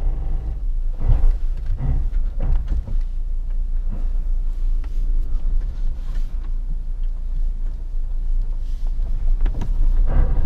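Suzuki Jimny's 1.5-litre four-cylinder engine running at low revs with a steady low drone, along with several knocks and thuds in the first few seconds and again near the end.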